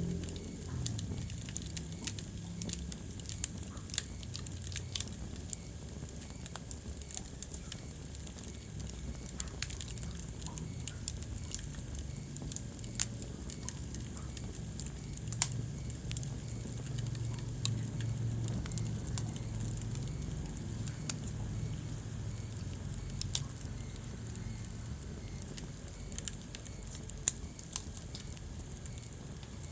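Wood fire burning in a fireplace, crackling with sharp, irregular pops over a steady low rumble of flames.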